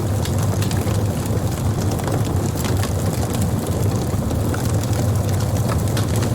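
Wood campfire burning, with scattered sharp crackles and pops from the burning wood over a steady low rumble.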